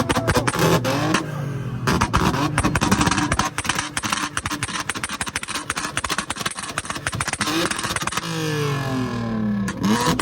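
High-revving car engine blipped repeatedly, its pitch sweeping up and falling back several times, over a rapid crackle of exhaust pops and bangs: the backfire crackle of a car tuned to shoot flames from its exhaust.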